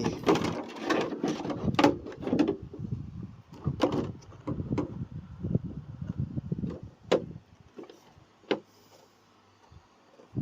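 Handling noise from a plastic RC car chassis and parts: a busy run of clicks, knocks and rustling for the first few seconds, then a few single sharp clicks, growing quieter near the end.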